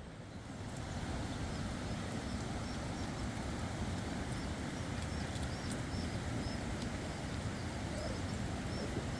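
A small bird chirping repeatedly in short high notes over a steady rushing noise that swells about a second in.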